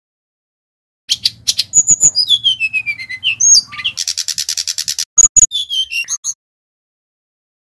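Sikatan rimba dada coklat (a jungle flycatcher) singing a fast, varied song. It starts about a second in with sharp chirps and clicks and a whistled phrase gliding down in pitch, then a rapid rattling chatter and a few loud clicks, and breaks off about six seconds in.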